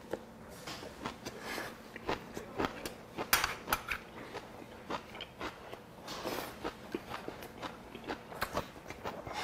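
A person chewing a mouthful of food close to a clip-on microphone: many irregular wet clicks and small crunches, with breath through the nose now and then.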